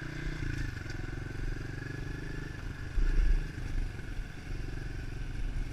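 110 cc four-stroke single-cylinder pit bike engine running at a steady speed while riding, with a steady high whine. A brief low rumble about three seconds in is the loudest moment.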